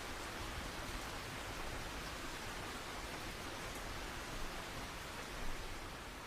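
Steady rain falling as an even hiss, with a couple of slightly louder drop impacts near the end.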